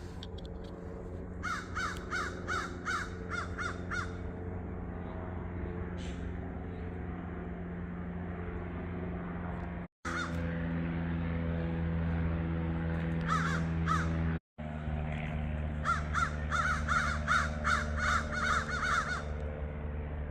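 Crows cawing in quick runs of harsh calls, mobbing a barred owl. There are three bursts: about ten caws, then two or three, then about a dozen, over a steady low hum. The sound drops out briefly twice in the middle.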